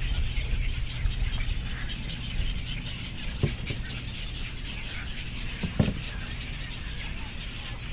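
Kayak paddling: a steady patter of water dripping and splashing off the paddle, with two dull knocks, about three and a half and six seconds in.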